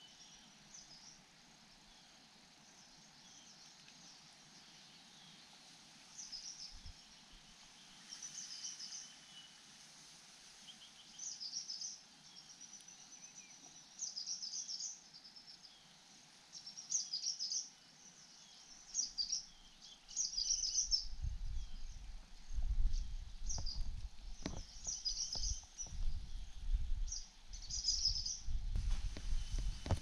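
A songbird singing short high phrases, one every two to three seconds, from about six seconds in. From about twenty seconds in, heavy low thumps and rumbling join and are the loudest sound.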